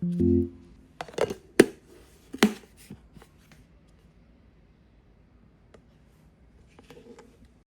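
Kitchen handling sounds: three sharp knocks or clinks in the first few seconds, then a few softer clicks and faint rustling.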